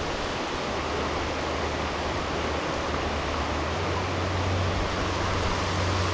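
Steady rain falling, a broad, even hiss, with a low hum underneath from about a second in that grows a little stronger near the end.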